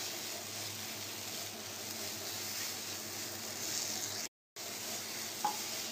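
Grated bottle gourd sizzling steadily as it fries in a non-stick pan, being cooked until its water dries off for a paratha filling. The sound drops out completely for a moment a little over four seconds in.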